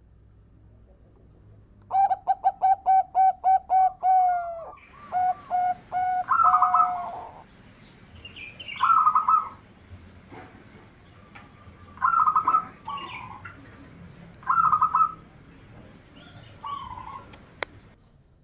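Zebra dove (perkutut) cooing. About two seconds in comes a fast string of short repeated notes, running into longer coos, then shorter coo phrases every couple of seconds. A single sharp click near the end.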